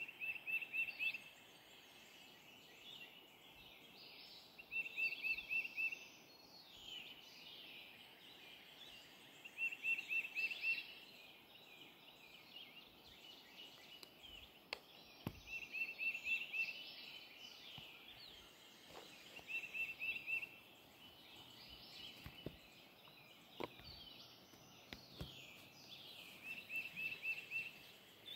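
Songbirds singing in trees. One bird repeats a short rapid series of six to eight high notes about every five seconds, while other birds add quick sweeping calls around it.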